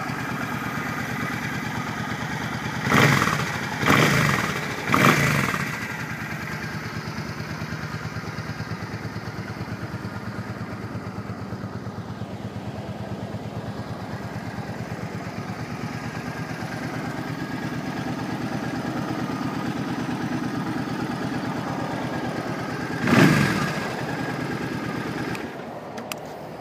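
Suzuki Boulevard C50T's 800cc fuel-injected V-twin idling steadily, blipped three times in quick succession about three seconds in and once more near the end. The engine is then shut off just before the end.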